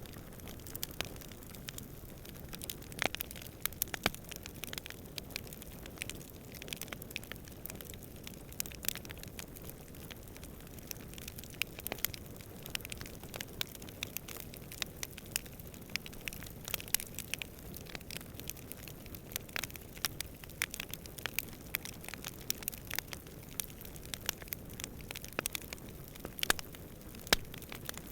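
Wood campfire crackling: irregular sharp pops and snaps, some louder than others, over a steady low rumble of burning and distant wind.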